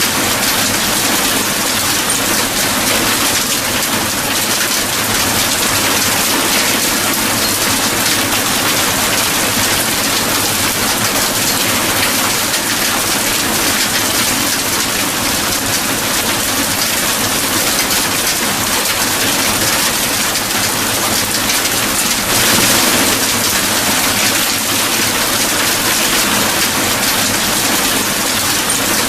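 Steady, heavy rain falling, a dense even hiss.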